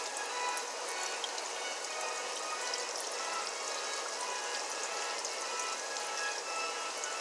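Chicken gizzards frying in grease in a frying pan: a steady sizzle with scattered small crackles and pops, with faint background music behind it.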